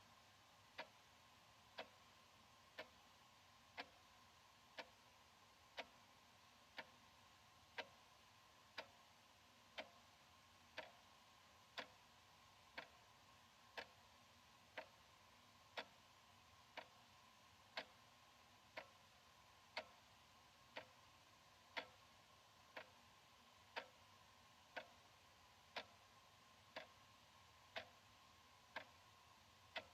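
Analog wall clock ticking steadily, about once a second, over a faint steady hum.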